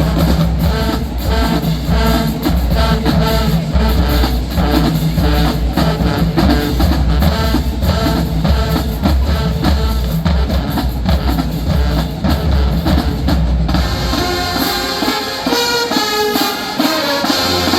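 Marching band playing: the percussion section drives a heavy beat with pounding bass drums, then about fourteen seconds in the drums drop back and the brass section comes in with a melody.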